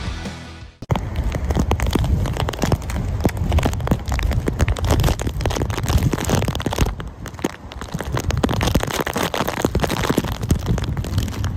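Hail pelting hard surfaces: a dense, continuous clatter of countless small impacts, starting just under a second in as background music cuts off.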